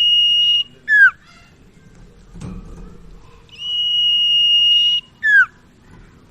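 Common iora (sirtu/cipaw) singing its song phrase twice: a long, steady, high whistle held on one pitch, then a short note that drops sharply in pitch.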